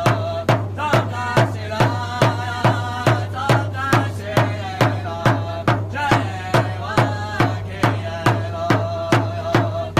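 A drum beaten in a steady even beat, about two strokes a second, with voices singing over it.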